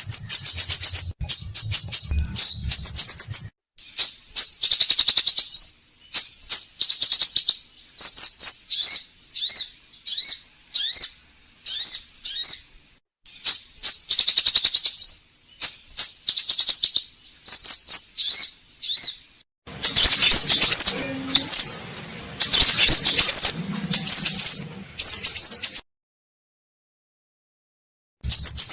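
Scarlet minivet (sepah raja) singing vigorously: rapid runs of short, high chirps and whistles, repeated phrase after phrase with brief breaks, then cutting off to silence for about the last three seconds.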